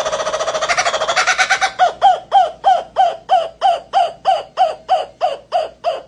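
A bird calling: a fast rattling run of notes that slows, about two seconds in, into loud, evenly spaced notes that each slur downward, about three a second.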